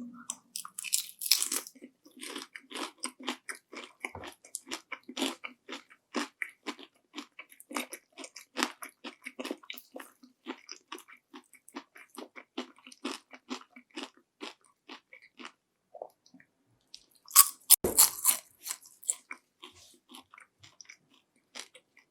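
Close-miked crunchy bites into panko-breaded fried shrimp, each followed by quick, crisp chewing of the fried breading. One loud bite comes right at the start and a second about 17 seconds in, with a fast run of crunchy chews between them and fewer chews near the end.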